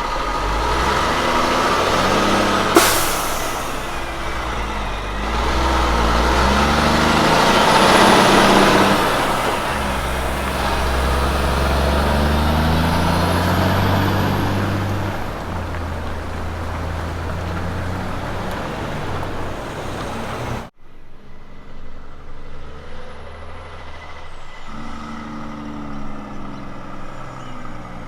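Road train's diesel prime mover working through its gears as it passes, engine note stepping up and down while tyre and trailer noise swells to a peak and fades, with a brief sharp hiss or crack about three seconds in. After a cut, another truck's engine runs more quietly, its note rising near the end.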